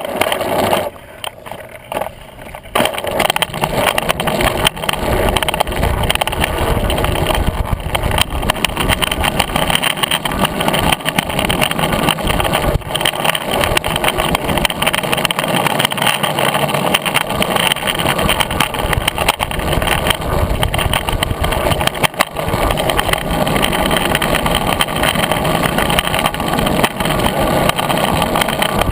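Longboard wheels rolling over a rough paved path: a loud, continuous grinding rumble broken by frequent small knocks, dropping away for a second or two near the start.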